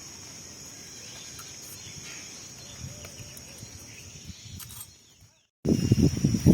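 Quiet rural outdoor ambience with a steady high-pitched drone over faint background noise. After a brief dropout near the end, a loud, low, rustling and crackling noise begins.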